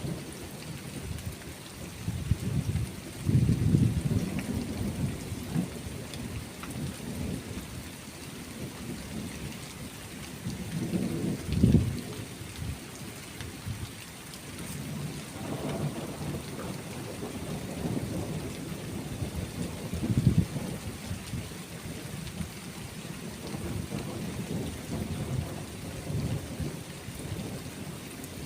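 Thunderstorm: steady rain hissing under rolling thunder that rumbles on and off, with louder peaks about three and a half seconds in, near the middle and about two-thirds of the way through.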